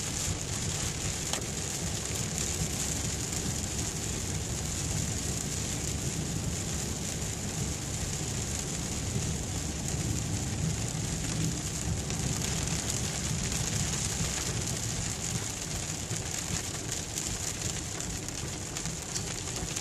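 Steady rain hitting a moving car, heard from inside the cabin over the low, even rumble of the car on the road.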